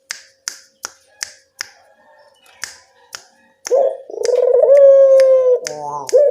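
A run of sharp clicks, about three a second, then a little over halfway in a puter (Barbary dove) starts a loud, long drawn coo that sags slightly in pitch, breaks briefly and starts again near the end. This is the lure call used to draw a reply from other puter doves.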